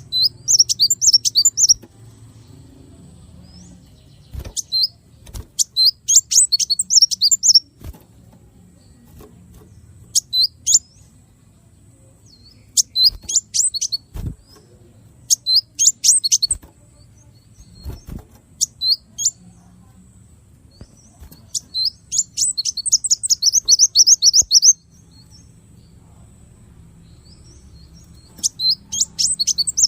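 A small songbird singing in short, rapid bursts of high chirps and trills, one burst every couple of seconds, with brief pauses between them.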